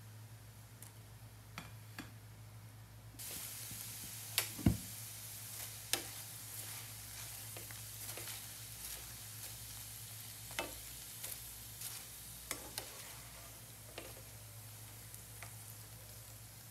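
Food sizzling in a frying pan; the sizzle comes in suddenly about three seconds in and runs on steadily. Scattered clicks and knocks of utensils against the pan sound through it, the loudest a sharp knock about four and a half seconds in.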